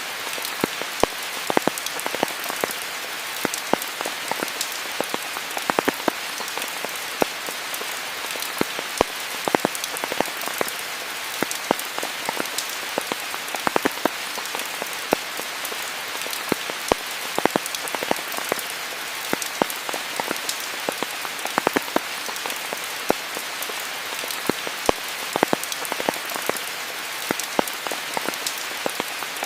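Steady rain falling on foliage, an even hiss with many close individual drops pattering throughout.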